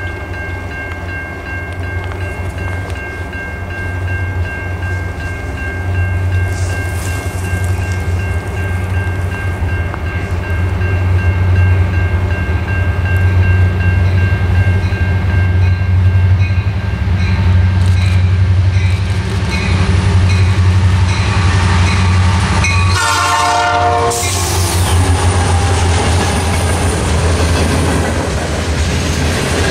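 Horn of a CN freight train led by two SD60 diesel locomotives: one long chord, then several shorter blasts, as the diesel engines' low rumble grows louder on approach. About 23 seconds in the locomotives pass close, and the freight cars follow with rolling rumble and wheel clatter.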